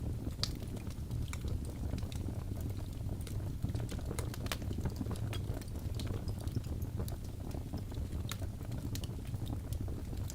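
Birch logs burning in a fireplace: a steady low rumble of flame with irregular sharp crackles and pops of the burning wood, several a second at times.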